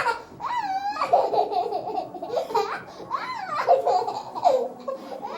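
A toddler laughing while being tickled, a string of high, rising and falling squeals and giggles.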